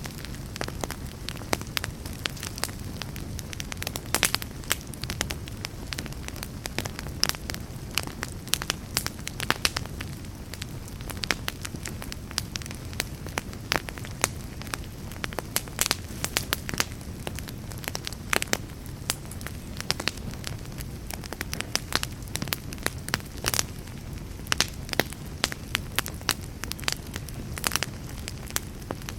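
Wood fire burning in a fireplace: a steady low rumble of flames under frequent irregular crackles and sharp pops from the burning logs.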